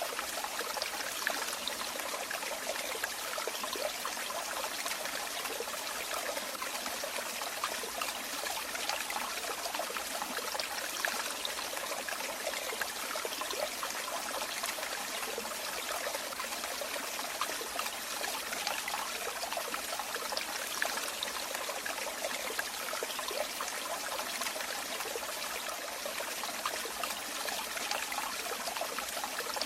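Running water: a stream trickling and splashing steadily, with small bright splashes flickering through it and no change in flow.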